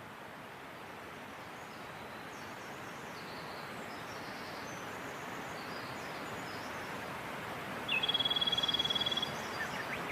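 Mountain stream rushing steadily, slowly growing louder, with faint bird chirps. About eight seconds in, a bird gives a loud, rapid, high trill lasting just over a second, followed by a few short chirps.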